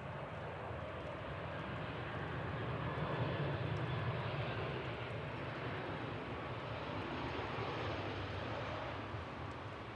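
Jet airliner engines running, a steady rumble that swells a little a few seconds in and then eases.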